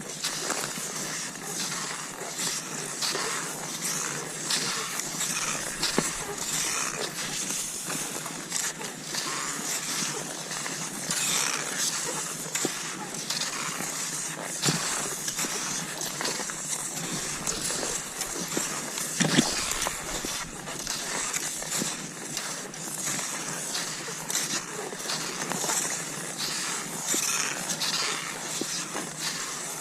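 Cross-country skis sliding over snow in a steady striding rhythm, a hissing swish every second or so, with a sharper knock about two-thirds of the way through.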